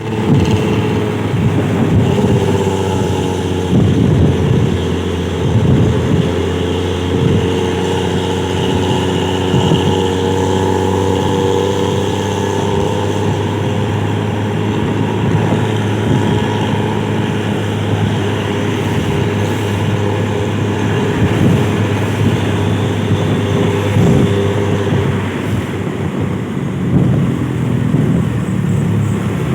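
Bus engine running through a loud open 'brong' exhaust: a steady drone that holds a nearly constant pitch.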